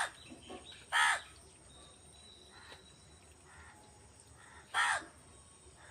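Crow cawing: three short, loud caws, two about a second apart at the start and one more near the end.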